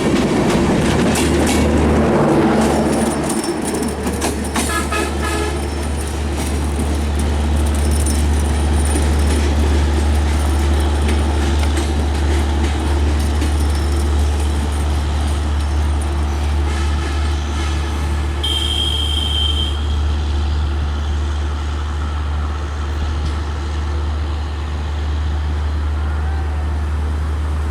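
Passenger train running past on the rails, its wheels clattering over rail joints at first, then settling into a steady low rumble. A brief high-pitched tone sounds about two-thirds of the way through.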